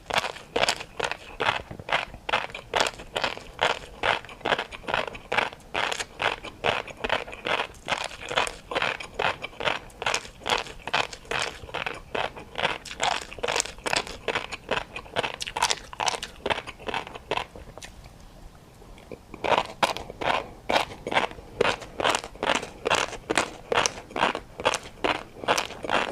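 A person chewing crunchy food close to the microphone: a steady rhythm of about two to three crisp crunches a second, pausing for about two seconds near the end before starting again.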